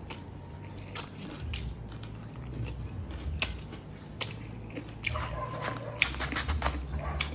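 Close-miked chewing of a mouthful of chicken adobo and rice, with scattered short mouth clicks that come thickest about five seconds in.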